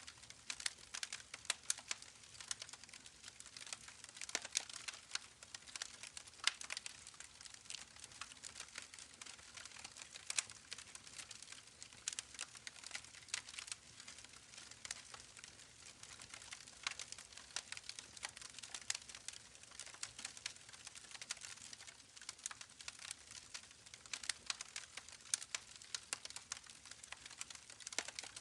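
Campfire crackling: a steady stream of small snaps and pops, with a few sharper cracks now and then.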